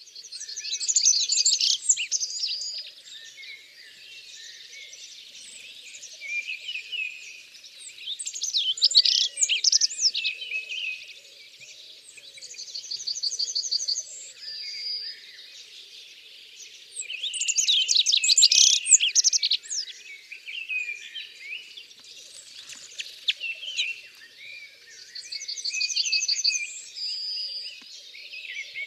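Birds singing, several chirping songs overlapping. Louder bursts of song come roughly every eight to nine seconds, with quick runs of rapidly repeated high notes between them.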